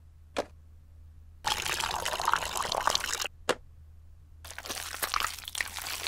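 Dubbed sound effect of milk pouring from a carton: a short click, then about two seconds of pouring liquid. After a second click, another stretch of liquid sound begins.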